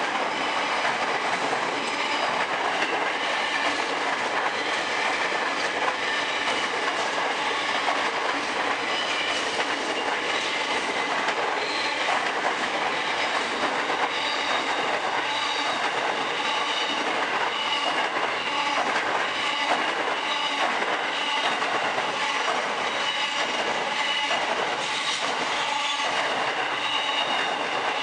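Freight train rolling through at steady speed: a continuous rumble of wagon wheels on the rails, with a regular clickety-clack over the rail joints and faint high wheel squeal.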